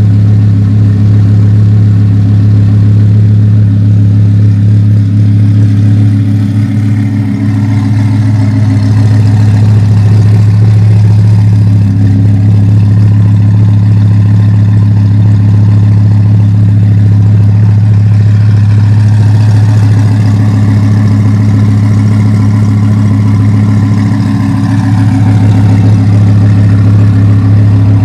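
Twin-turbocharged Audi R8 5.2 V10 idling steadily and loudly, with a couple of slight dips and lifts in engine speed.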